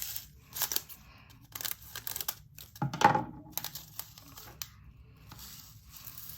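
Plastic baggie of resin diamond-painting drills crinkling as it is handled and opened, with one louder knock about three seconds in. Then a soft, steady hiss of the small drills being poured into a storage container compartment.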